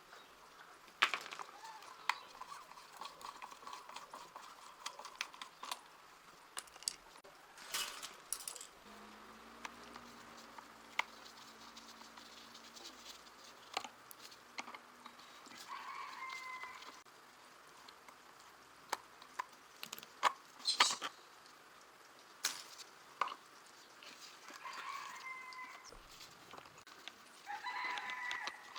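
Chickens clucking now and then, with short calls about halfway through and again near the end. Many sharp clicks and taps sound throughout.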